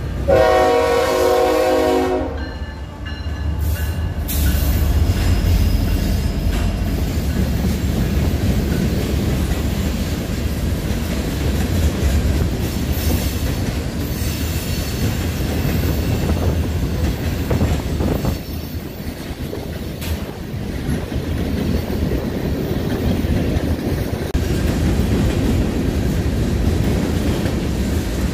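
Diesel freight locomotive horn sounding until about two seconds in, then the steady rumble and wheel clatter of a passing freight train.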